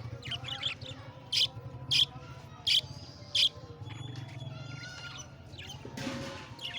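Parrots calling in an aviary: four loud, sharp screeches about two-thirds of a second apart, with softer chirps around them. A steady low hum runs underneath.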